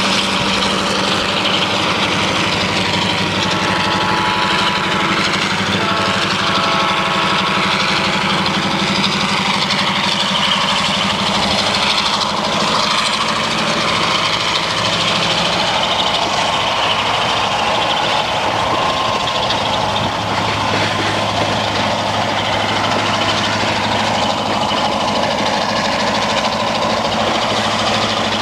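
Diesel freight locomotive running hard under acceleration as it hauls a loaded soybean train past in the rain, with a steady low engine hum over a dense hiss of rolling wagons and rain. The engine note shifts lower about twenty seconds in.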